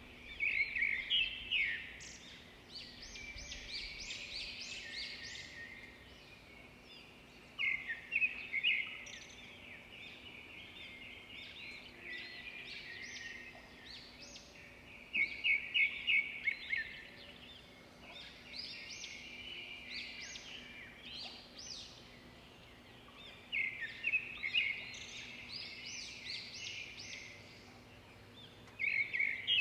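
Songbirds singing outdoors: loud bursts of rapid repeated high notes every six to eight seconds, with quieter chirping in between.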